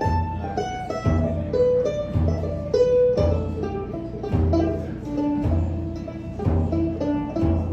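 A live folk band playing an instrumental passage between sung verses: plucked strings pick a melody over a low bass note that comes about once a second.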